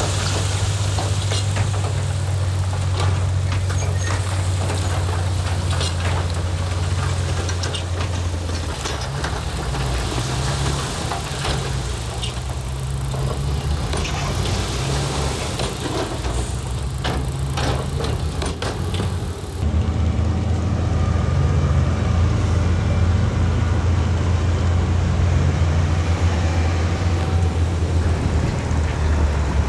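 Heavy diesel engines of earthmoving machinery running steadily, with scattered knocks and clanks through the first part. The sound changes abruptly about two-thirds of the way through.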